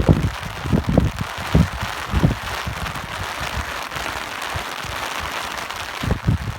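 Steady rain hiss, with gusts of wind buffeting the microphone in low rumbling surges during the first couple of seconds and again near the end.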